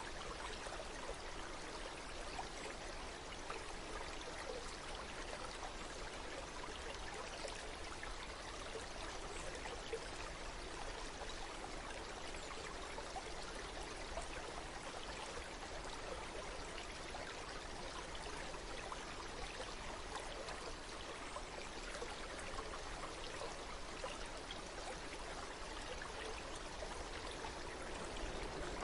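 Water flowing steadily in a stream, an even rushing and trickling that does not change.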